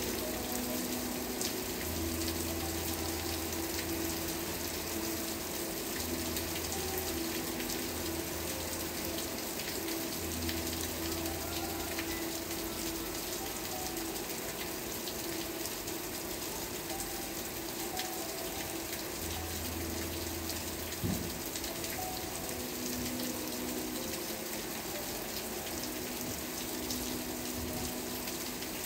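Steady rain falling, an even hiss with scattered drops ticking, and a few low held tones underneath that come and go.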